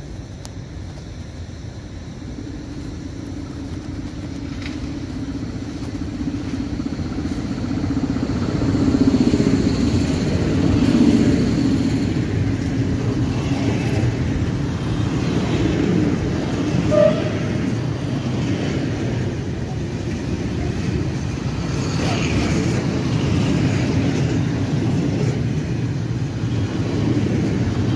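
PKP Cargo ET41 twin-section electric locomotive approaching and passing through the station, growing louder to a peak about ten seconds in. It is followed by the steady rumble of open freight coal wagons rolling past on the rails.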